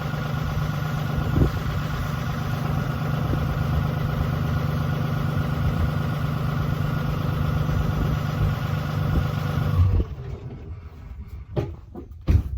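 2017 Ram 2500's 6.7-litre Cummins straight-six turbo diesel on its factory exhaust, idling steadily after a cold start at 1 degree, then shut off suddenly about ten seconds in. A few short knocks follow near the end.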